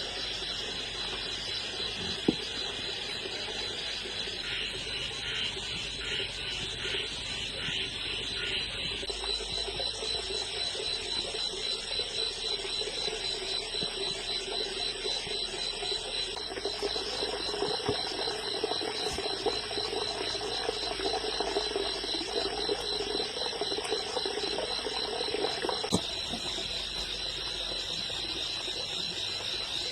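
Insects trilling steadily in a fast, even pulse, with a low hum swelling through the middle and single knocks about two seconds in and near the end.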